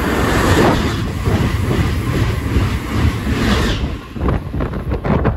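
Passenger train running through a station at speed: a loud rush of wheels and air. About four seconds in, as it clears, it gives way to gusty wind buffeting the microphone in its wake.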